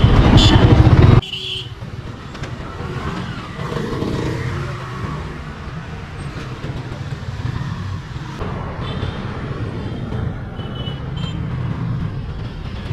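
Road traffic: a loud, close vehicle rumble for about the first second that cuts off suddenly, then a steady, quieter traffic hum.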